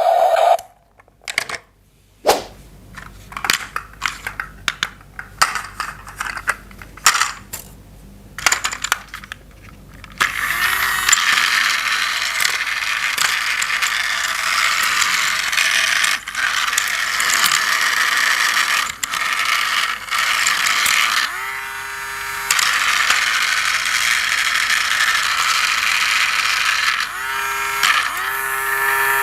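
Hard plastic toy parts clicking and knocking as they are handled for about ten seconds, then a battery-powered toy train's motor and plastic gears running with a steady whir.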